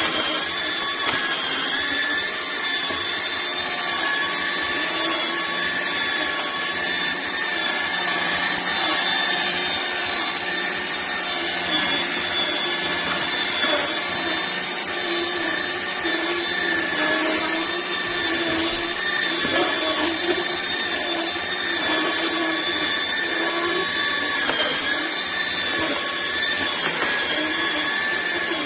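Electric cold-press juicer motor running steadily, a constant whine.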